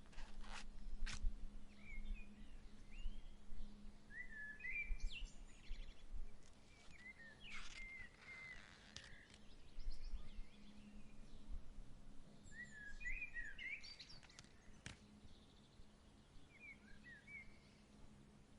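Small songbirds chirping in short, quick rising and falling notes, in several separate bouts, over a low breeze rumble. A few sharp clicks come near the start and again about halfway through.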